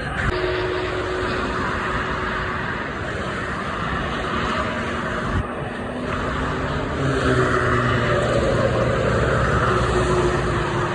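Motor vehicle engines running in road traffic, a steady rumble with engine hum that grows louder about seven seconds in.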